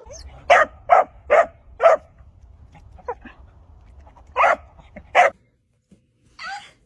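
A dog barking back in short loud barks: four in quick succession, then two more, and a short pitched whine near the end.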